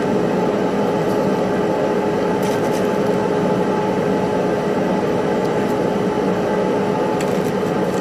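A steady mechanical drone with a constant hum, unchanging throughout, with a few faint clicks over it.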